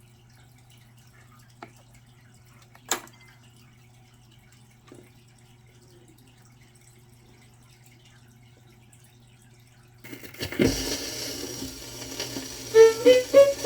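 Record player with a steady low hum and a few scattered clicks; about ten seconds in the stylus meets the 78 rpm shellac record with a low thump, then the record's surface hiss runs on, and near the end the song's instrumental intro begins with plucked notes.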